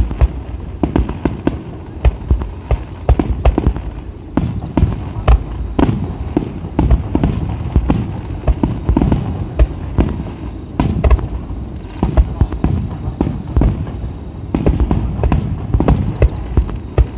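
Aerial firework shells launching and bursting in irregular succession: a continuous run of booms and sharp bangs, several a second at times.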